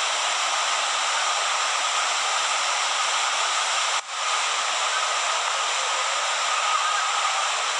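River in flood: a loud, steady rush of fast, churning floodwater, with a brief sudden dip about four seconds in.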